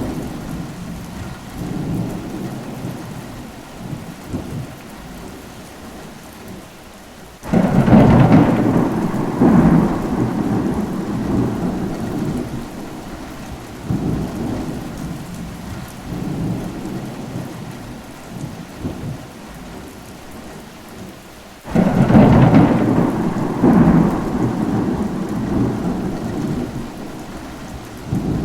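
Steady rain with thunder: two sudden loud cracks, about 7 seconds and 22 seconds in, each rumbling on for several seconds and fading.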